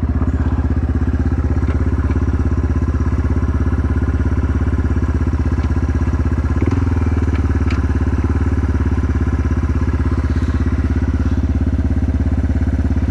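Yamaha TW200's single-cylinder four-stroke engine running at a steady, even speed, with a slight change in its note about seven seconds in and a few faint ticks.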